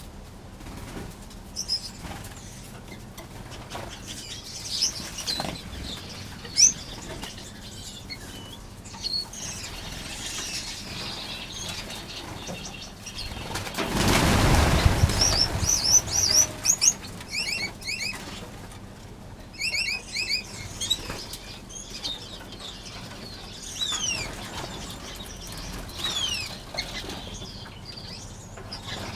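Aviary finches chirping and calling with short, high notes and quick falling whistles, and wings flapping as birds fly about. About halfway through there is a loud flurry of wingbeats lasting a second or so, followed by a quick run of repeated calls.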